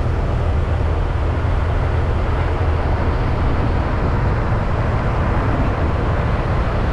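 Motorcycle running steadily at riding speed: a constant low engine rumble under rushing road and wind noise.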